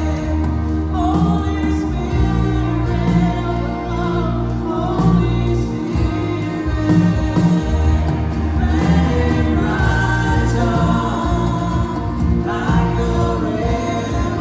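Gospel choir singing with a live band, a strong bass line underneath.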